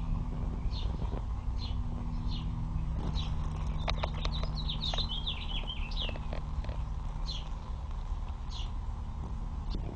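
A bird calling repeatedly, a short downward-sweeping chirp about every half second, with a quicker run of chirps about four to five seconds in; a steady low rumble sits underneath.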